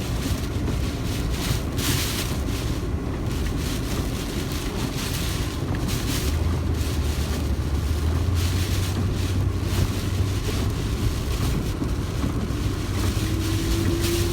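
A car running, heard from inside the cabin: a steady low engine and road drone, with rushing wind noise that swells and fades every second or two.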